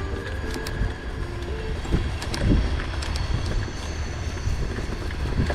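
Mountain bike riding fast down a rough trail: steady wind and tyre rumble on the microphone, with scattered rattles and knocks from the bike over the bumps.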